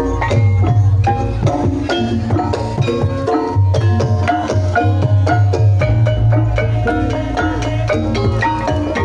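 Gamelan music playing ebeg accompaniment: many quick struck notes from mallet instruments in busy interlocking patterns over a loud, sustained low booming tone.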